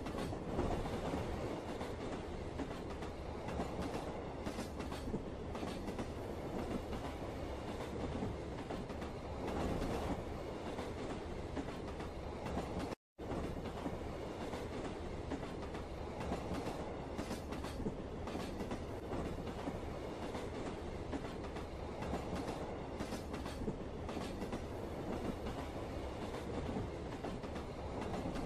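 Train running on rails: a steady rumble with faint clicking from the wheels. The sound drops out completely for an instant about halfway through.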